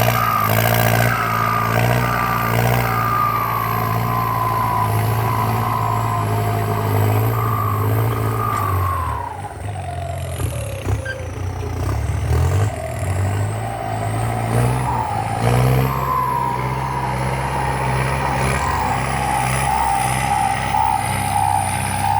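Kubota M8808 tractor's turbocharged diesel engine running hard under load while pulling a disc plow through soil, with a thin high turbo whistle over it. About nine seconds in, the engine eases off with a falling pitch, then picks back up around sixteen seconds and runs steadily again.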